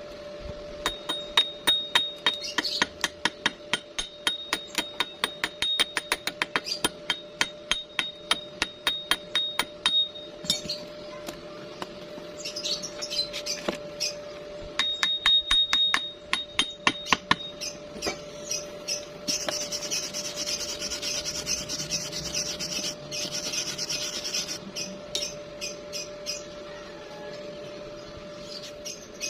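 A hammer tapping on metal in quick, even strokes, about three a second, each strike ringing briefly. A second run of taps follows, then a few seconds of scraping or rasping on metal.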